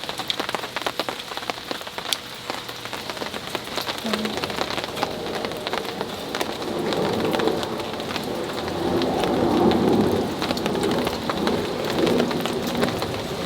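Heavy rain pattering on a camping tarp, dense scattered drop hits. From about four seconds in a low rumble of thunder builds, loudest a little past the middle.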